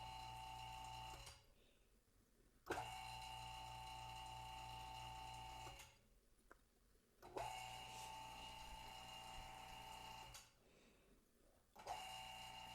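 Phone-screen laminating machine running in a repeating cycle: a steady motor hum for about three seconds, then a stop of about a second and a half, then a fresh start with a click. It stops three times and starts again three times.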